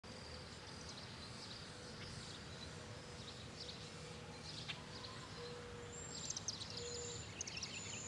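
Faint outdoor ambience: small birds chirping, with a cluster of chirps about six to seven and a half seconds in. Under them are a low steady rumble and a faint steady hum.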